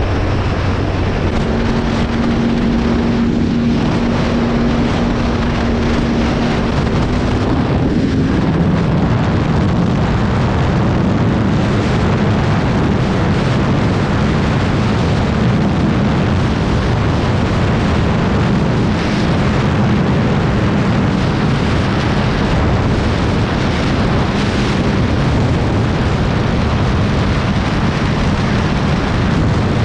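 Moped engine running at speed, its pitch holding steady and then dropping about eight seconds in, with wind rushing over the microphone.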